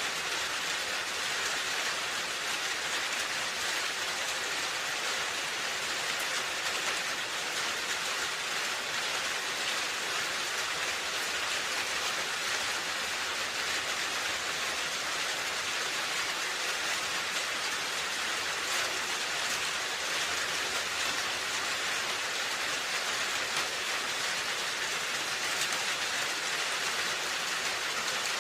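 Steady rain falling on a roof: an even, dense hiss of drops with faint scattered ticks, no change in strength.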